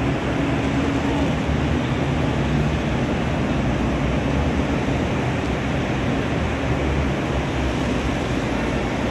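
Engines of vintage cars running as they drive slowly past, over a steady noisy background.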